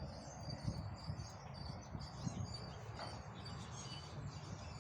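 Birds chirping here and there, over a steady low rumble.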